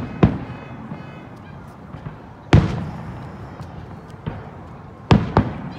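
Aerial fireworks shells bursting: a boom just after the start, the loudest about two and a half seconds in, and two in quick succession near the end, each trailing off in an echoing tail.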